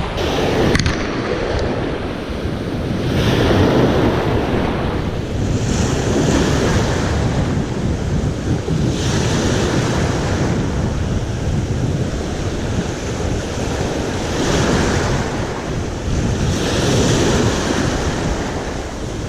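Waves washing onto the shore, surging every few seconds, with strong wind buffeting the microphone.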